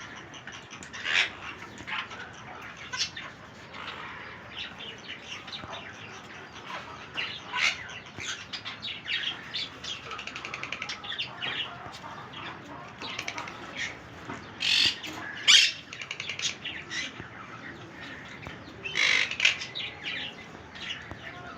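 Pet parrots chirping and squawking in many short, quick calls, with wing flapping; the loudest calls come about 15 and 19 seconds in.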